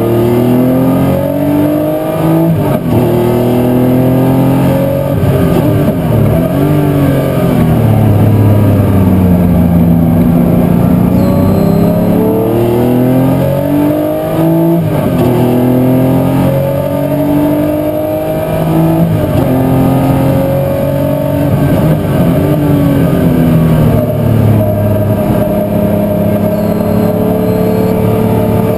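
A historic muscle race car's engine at full racing speed. Its pitch climbs steadily and then drops sharply again and again as it goes up through the gears, with a few quick dips and rises where it brakes and shifts down for corners.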